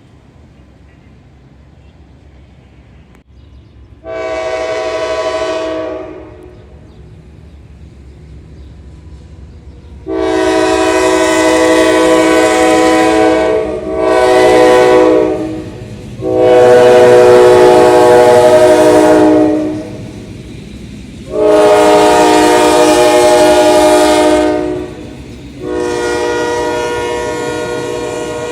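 General Electric diesel locomotive sounding its air horn in six blasts: a short one about four seconds in, then five longer blasts of two to three seconds each, the last running on past the end, over the low steady rumble of the passing train.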